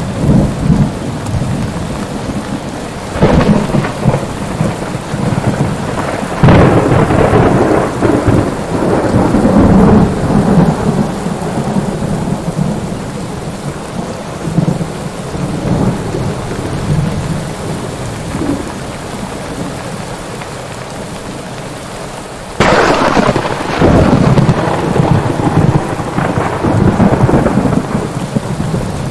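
Thunderstorm: steady heavy rain with thunder. Sharp cracks about three and six seconds in roll on for several seconds, and a louder crack comes about three-quarters of the way through.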